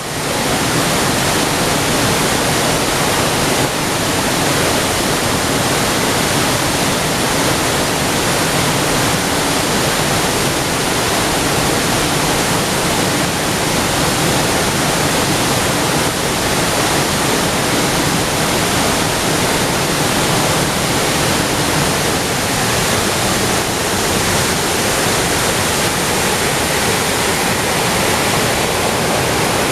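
Nunobiki Falls in heavy flow after rain: a loud, steady, unbroken rush of falling water.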